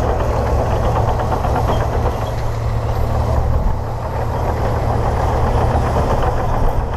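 Komatsu D58P bulldozer's diesel engine running steadily, a deep low rumble with a fast rattling beat.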